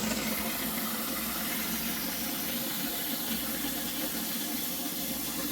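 Water running steadily into a fish tank as it is being filled.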